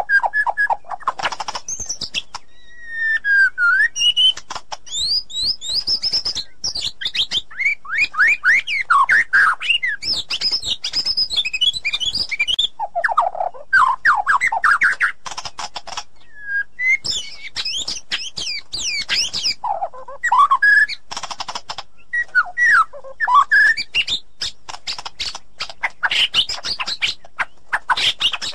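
White-rumped shama singing a long, varied song of rapid whistles, sweeping notes and chattering trills, phrase after phrase with short pauses.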